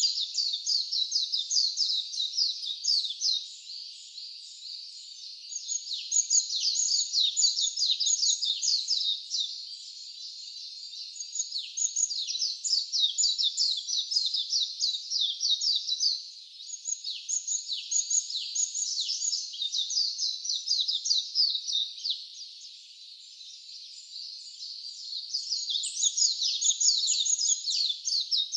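A dense chorus of rapid, high-pitched chirps, each sweeping downward, coming in bouts of a few seconds with short quieter gaps between them.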